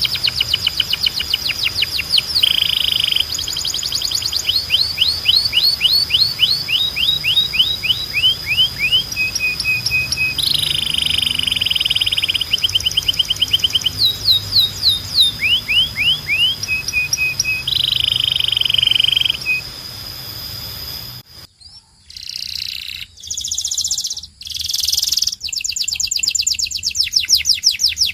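Domestic canary singing a continuous training song of rapid trills and rolling repeated phrases, over a steady high thin tone. About three-quarters through, the song briefly drops out and returns in short, louder, choppier bursts before fast trills resume near the end.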